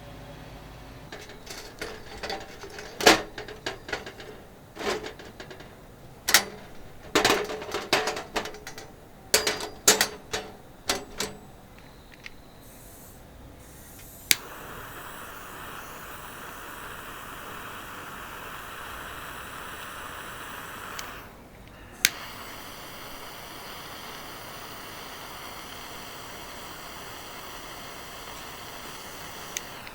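Hard clacks and knocks of barbecue gear being handled and set down, about a dozen in quick succession. Then a steady hiss starts suddenly, breaks off briefly, and comes back after a single click.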